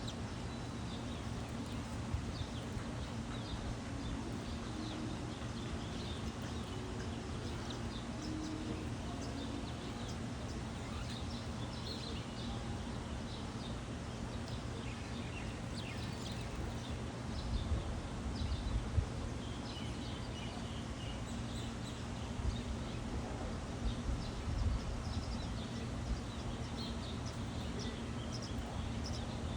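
Small backyard birds chirping in short, scattered calls over a steady low background hum, with a few low thumps around the middle and again later.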